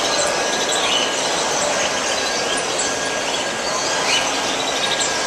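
Dense, steady chorus of many small caged birds chirping and twittering at once, over a general crowd hubbub.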